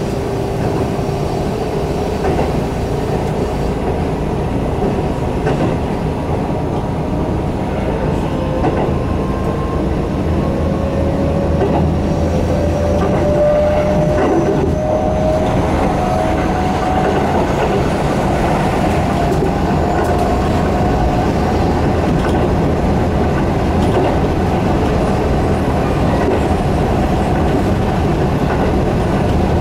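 Keihan electric train running at speed, heard from inside the passenger car: steady wheel-and-rail rumble with occasional knocks from the track. Through the middle a faint whine rises slowly in pitch.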